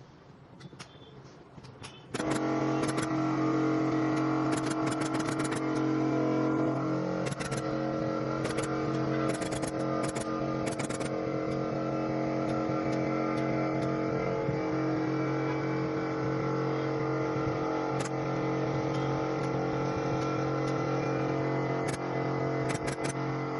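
A motor starts abruptly about two seconds in and runs steadily at a constant pitch, with clusters of sharp clicks over it.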